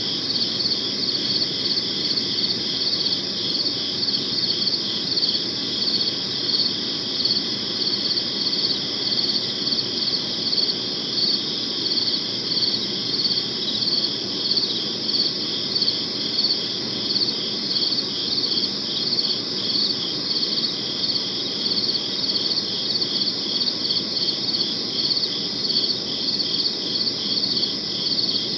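Crickets chirping steadily in a regular pulsing rhythm, about two chirps a second, with a faint low background hum.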